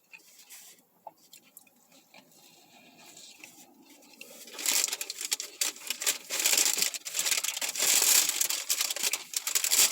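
Paper crinkling and rustling: a sandwich wrapper being handled. Faint clicks at first, then from about four and a half seconds in a loud, dense crackle.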